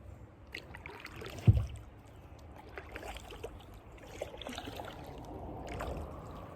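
Kayak on the water: paddle strokes splashing and water trickling off the blades, with small knocks and one dull thump about a second and a half in.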